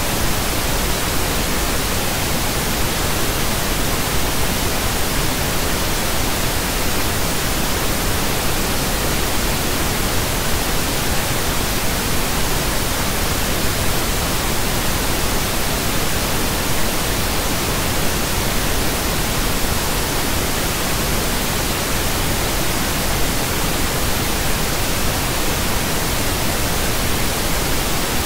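Continuous pink noise: a steady, even hiss across the whole range, unchanging.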